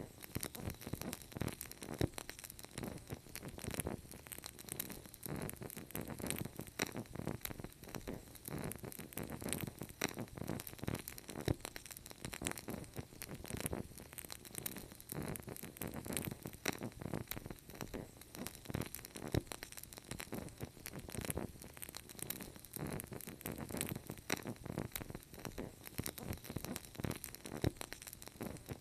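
Wood fire crackling steadily, with dense small pops and snaps over a soft rushing bed of flame.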